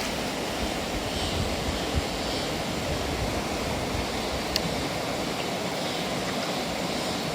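Steady rush of running water as a muddy toy vehicle is washed in it, with a couple of faint clicks.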